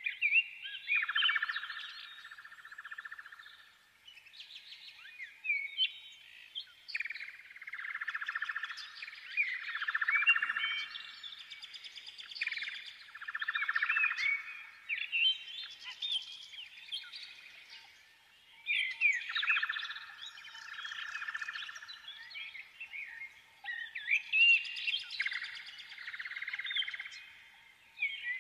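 Birds chirping and trilling in bursts a few seconds long, with short quiet gaps between them, over a faint steady hum.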